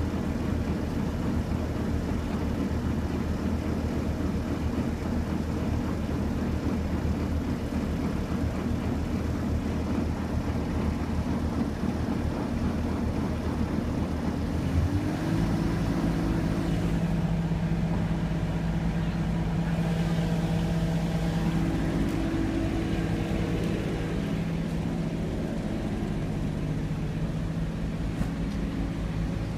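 Delivery truck's engine idling steadily at the curb, a continuous low drone with street traffic noise around it; the drone shifts to a higher hum about halfway through.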